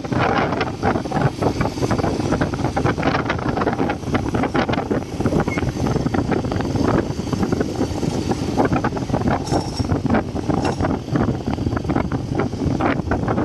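JCB 3DX backhoe loader's diesel engine running while working, with frequent short knocks and clatters.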